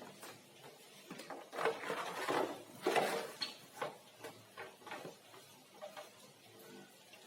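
Light clicks, knocks and scraping of small hard objects being handled, busiest and loudest about two to three seconds in.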